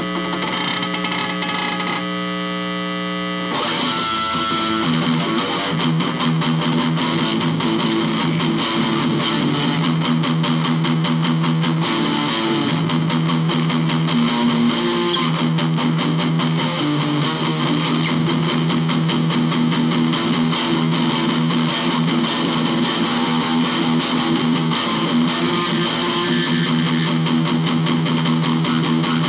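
Distorted electric guitar playing an improvised piece through effects, holding sustained chords; about three and a half seconds in the sound thickens and gets louder and stays that way.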